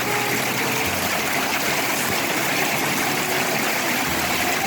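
Steady rushing and trickling water.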